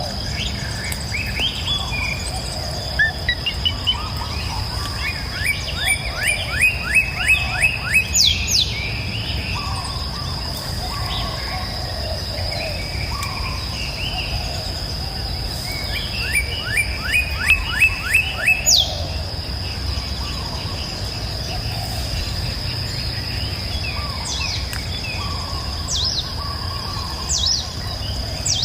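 Songbirds singing, one repeating a fast trill of about eight to ten sharp notes twice, with scattered chirps between. Behind them run a steady high-pitched insect drone and a low rushing of river water.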